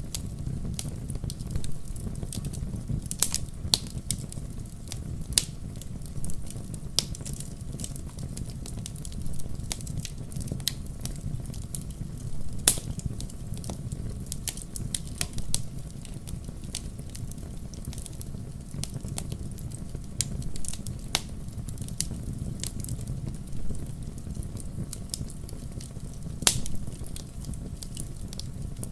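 Wood campfire burning, with a steady low rumble of flames and irregular sharp crackles and pops from the burning logs.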